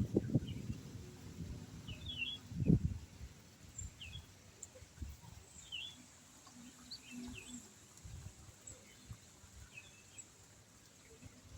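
Small birds chirping now and then, with short high chirps every second or so. A few low rustles and thumps come in the first three seconds, one of them louder.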